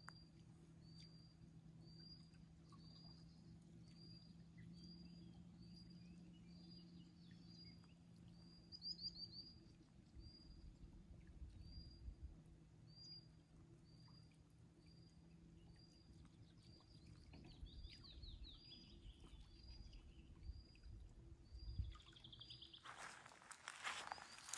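A small bird calling one short high note over and over, evenly, about one and a half times a second, with a brief trill twice; a faint steady low hum lies underneath. Near the end, crunching footsteps begin.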